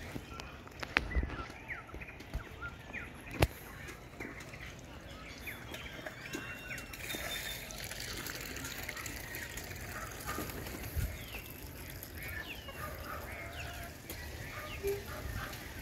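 Outdoor ambience with many birds chirping and calling throughout, and two sharp clicks in the first few seconds.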